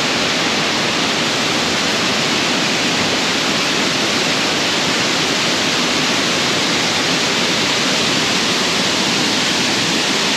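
Waterfall rushing steadily and loudly, a dense unbroken roar of falling and splashing water.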